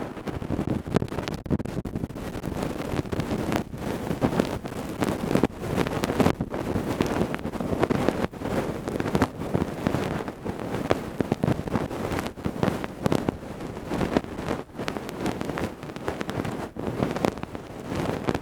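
Close-miked ear-cleaning ASMR sounds: tools scraping and rubbing in the ear, a dense, unbroken crackling rustle full of small clicks, worked in both ears at once.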